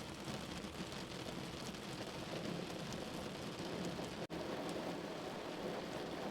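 Steady rain falling, with faint scattered drop ticks; the sound cuts out for an instant about four seconds in.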